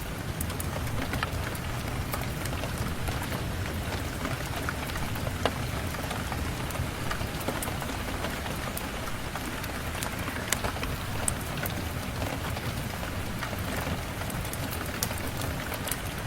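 Steady rain, with scattered sharp ticks and pops over the continuous hiss.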